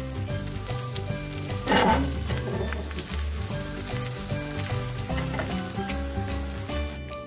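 Thin potato slices frying in butter in a pan, a steady sizzle that flares louder for a moment about two seconds in as a piece of butter is pressed into the pan. Background music plays underneath.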